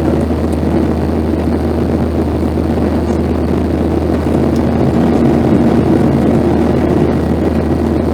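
Steady cabin noise inside a Boeing 737-800: the drone of its CFM56-7B turbofan engines and the rush of airflow, with a constant low hum.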